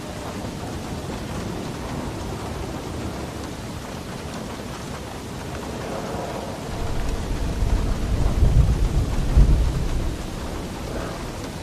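Steady heavy rain, with a roll of thunder that swells past the middle, is loudest around two-thirds of the way in, and dies away near the end.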